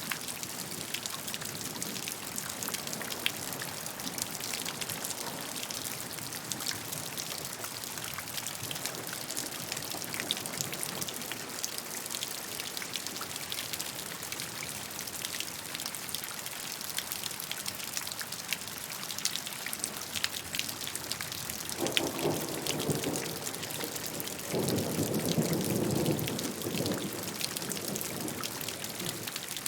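Steady gentle rain with a patter of individual drops. Near the end two short, low rumbles swell up and fade.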